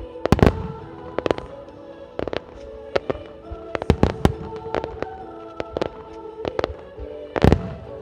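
Starmine fireworks display: shells bursting in quick irregular succession, the heaviest booms about half a second in and again near the end, over accompanying music.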